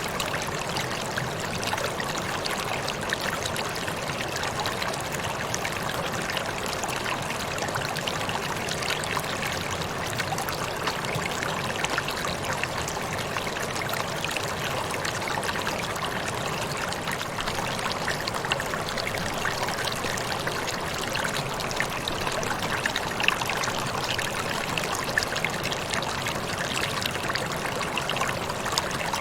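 Water falling and splashing steadily, a constant rushing with small splashes scattered through it.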